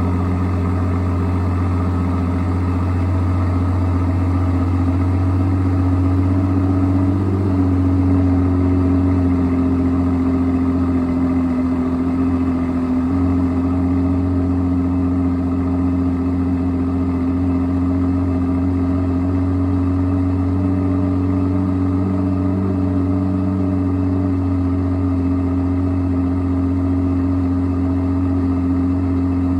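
2023 Aston Martin V12 Vantage's twin-turbo V12 idling steadily while warming up after a cold start. The idle pitch rises slightly about a quarter of the way in, then steps down a little and holds steady.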